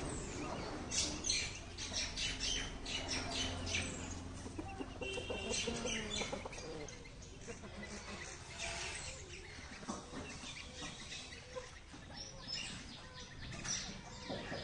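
Birds chirping and calling in quick short chirps, most busily in the first several seconds and more scattered after that, over a low steady hum.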